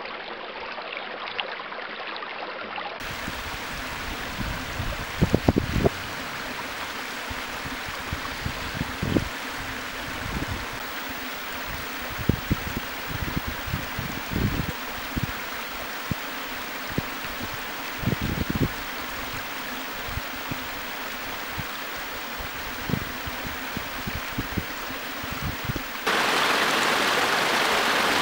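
Steady rush of running water, changing abruptly about three seconds in and again near the end, where it gets louder and brighter. Irregular low thumps come and go over the middle stretch.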